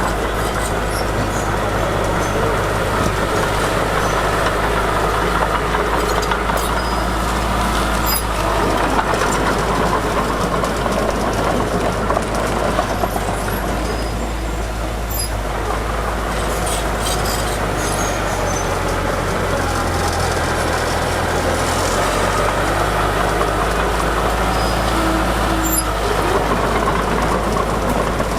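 Diesel earthmoving machinery running steadily at work, with a deep engine hum whose low note shifts briefly about twenty seconds in, and scattered light clinks.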